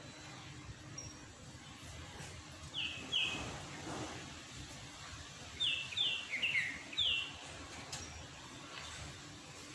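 Short, high bird calls, each dropping slightly in pitch: a pair about three seconds in, then a quick run of about six a little later.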